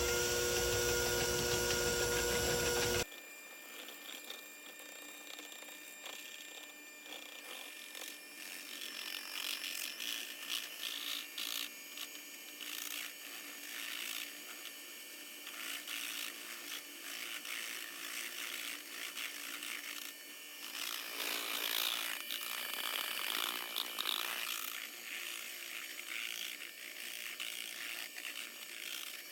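Instant coffee, sugar and hot water being whipped in a bowl into dalgona foam: a fast, irregular scraping and rattling of beaters against the bowl. For the first three seconds a louder, steady sound with held tones plays over it and then cuts off abruptly.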